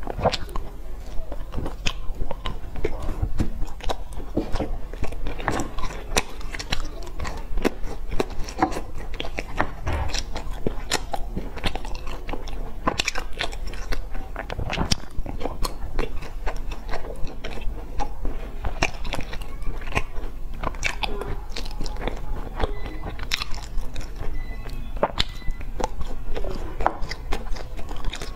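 Close-miked biting and chewing of crunchy, sesame-coated glazed pastry pieces, with a dense, irregular run of crackly crunches and mouth clicks.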